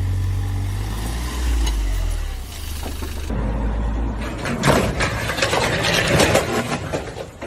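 A vehicle's low engine and road rumble. After a cut, a loud run of bangs and clattering, the sound of a car collision with crunching bodywork and scattering debris.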